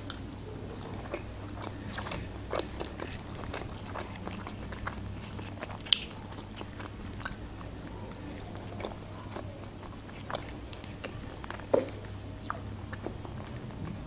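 Close-miked chewing of a McDonald's chicken nugget, with moist mouth sounds and scattered small clicks and crunches. A sharper click comes about six seconds in and another about two seconds before the end.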